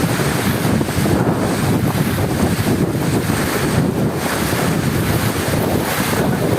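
Heavy rain falling in a steady, dense roar, with a low rumbling undertone.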